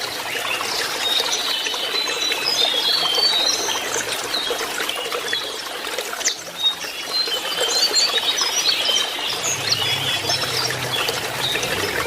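Lesser shortwing singing rapid, high, jumbled phrases of short notes over a steady rush of running water.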